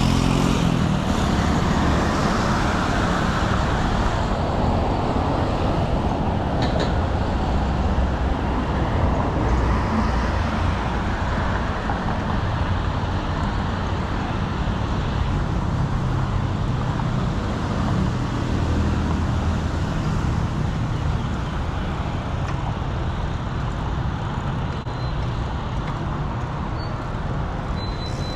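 Steady city road traffic: car and motorbike engines running and passing close by, with a continuous rush of tyre and road noise. The engine sound is heaviest near the start and again about two-thirds of the way through, easing slightly toward the end.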